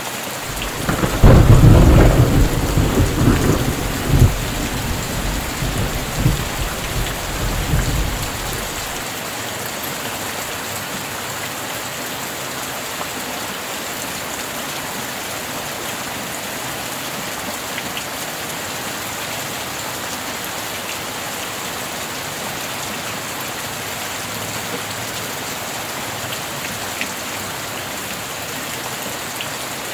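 Steady rain throughout. About a second in, a clap of thunder rolls on with several swells for about seven seconds before dying away, leaving only the rain.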